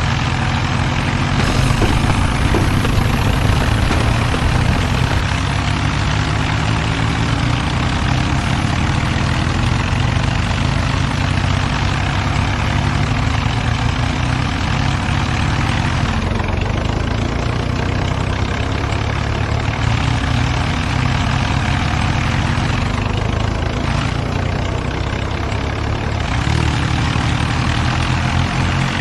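Tractor diesel engines running hard and steady under heavy load in a tractor tug-of-war, with a dense hiss over the low engine note.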